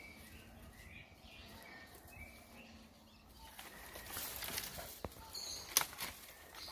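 Faint birds chirping in the open countryside, with some rustling and a couple of sharp clicks between about five and six seconds in.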